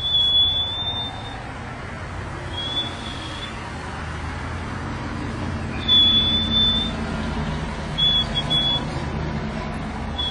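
Whistling exchange with a white pet bird: a series of high, steady whistled notes, a long one, a short one, another long one, then two short broken notes, over a low steady hum.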